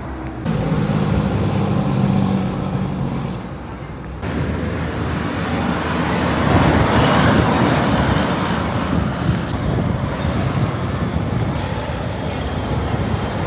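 Road traffic with heavy trucks running and passing, with some wind noise on the microphone. The sound changes abruptly about half a second in and again about four seconds in, like cuts between separate clips.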